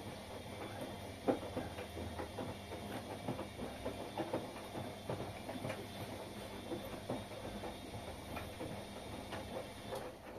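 Washing machine running, a low hum under many irregular clicks and knocks as the drum turns the load. The sound drops off suddenly near the end.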